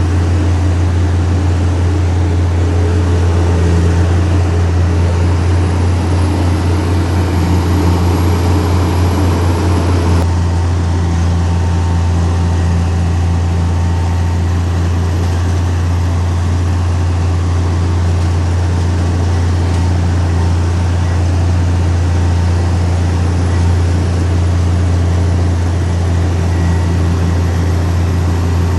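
Heavy diesel engine of earthmoving machinery running steadily with a strong low drone, with an abrupt change about ten seconds in.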